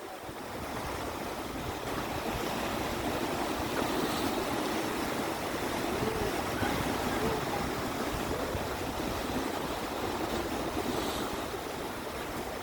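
Sea waves washing and surging: a steady rushing noise that swells and eases slowly.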